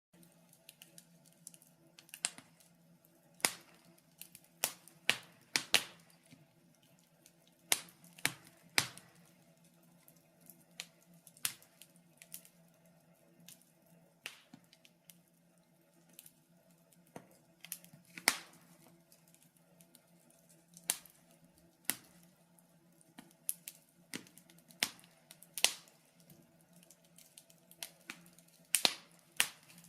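Wood fire crackling in a fireplace: irregular sharp pops and snaps, some loud and some faint, coming every second or so over a faint steady low hum.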